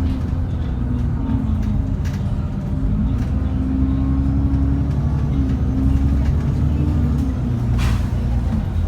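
The Cummins ISBe 6.7-litre diesel engine of an ADL Enviro400 double-decker bus running as a steady drone, with a hum that fades and returns. Light rattles run through it, and there is a short hiss about eight seconds in.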